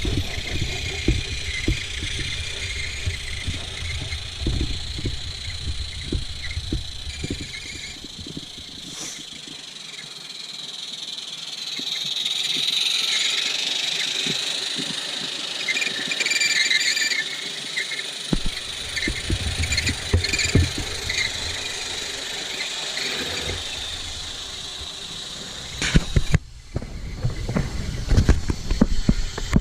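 Roundhouse Silver Lady live steam model locomotive running: a steady hiss of steam, loudest about halfway through, over irregular low knocks and thumps.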